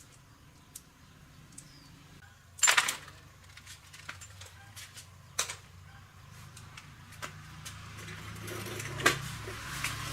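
Metal parts and tools being handled, giving scattered clicks and knocks, the loudest about two and a half seconds in, over a low hum that grows louder near the end.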